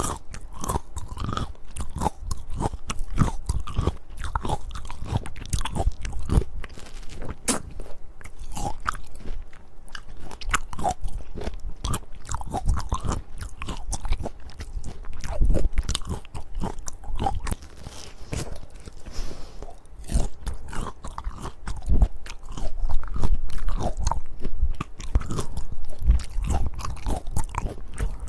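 Close-miked biting and chewing of peaches, a continuous run of wet, crisp crunches and crackles with dull low thuds from the bites.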